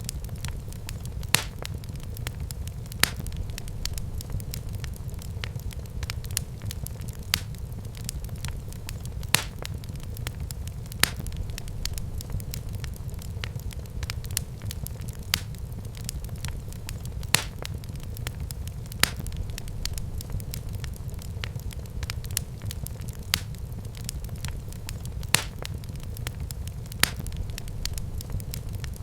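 Wood fire burning in a fireplace: a steady low rumble of the flames with sharp crackles and pops about every one to two seconds.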